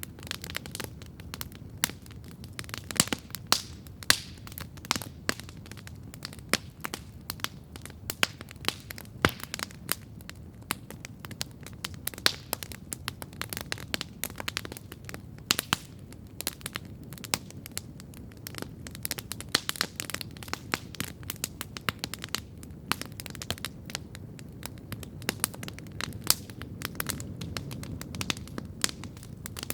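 Wood campfire crackling steadily: many sharp, irregular pops and snaps over a soft low rumble of the flames.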